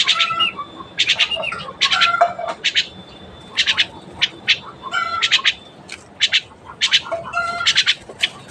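Pet bird chirping and squawking: a run of short, high calls in quick clusters.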